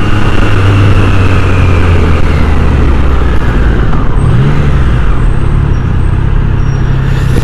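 Triumph Trident 660's three-cylinder engine running on the move, with wind noise. Its pitch sinks slowly at first, then rises about four seconds in and holds steady.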